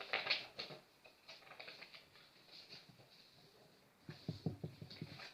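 Sheet of paper rustling and crackling in the hands as it is folded and creased, in irregular bursts that are busiest near the start and again near the end.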